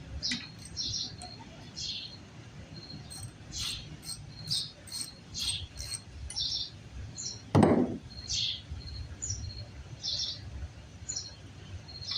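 A bird chirping in short, high, repeated chirps, about one or two a second, over a low background rumble. A single loud thud comes about two-thirds of the way through.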